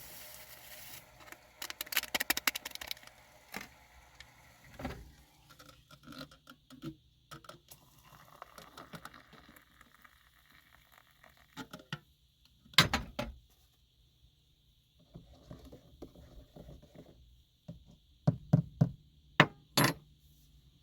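Scattered knocks, taps and scrapes of things being handled and moved inside a small car camper, with a loud knock about halfway through and a few more thuds near the end.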